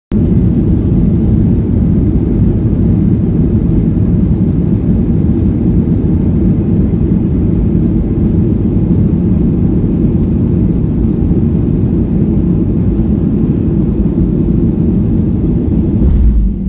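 Airliner engines running at takeoff power: a loud, steady low rumble, with a brief low thump near the end.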